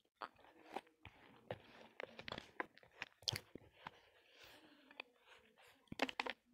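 Chewing and biting roasted multani mitti (Fuller's earth clay) close to the microphone: a run of irregular sharp crunches.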